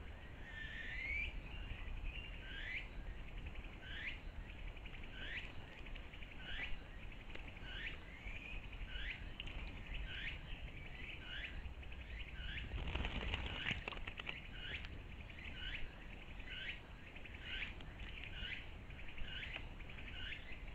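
A bird calling one short hooked note over and over, falling in pitch and then flicking up, about twice a second. There is a brief rush of noise about thirteen seconds in.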